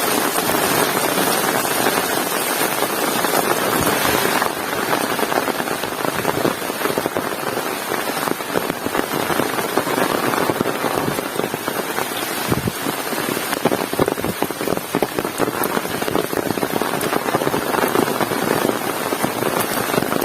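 Heavy rain falling steadily, a dense patter of drops striking surfaces, with a slight change in tone about four and a half seconds in.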